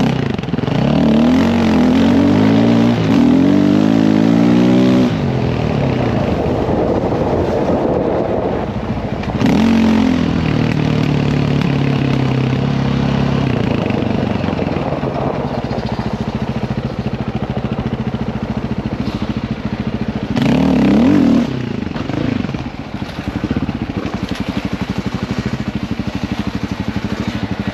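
Dirt bike engine being ridden hard, revving up and shifting through gears in repeated climbs: the longest in the first five seconds, another at about ten seconds and a short one at about twenty-one seconds, with steadier running between.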